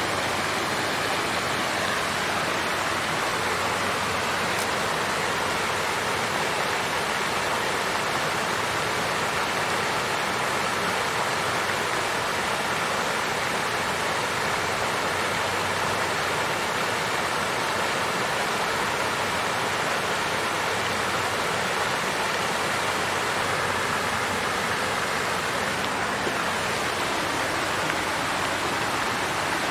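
Water fountain running: a steady, even rush of falling and splashing water.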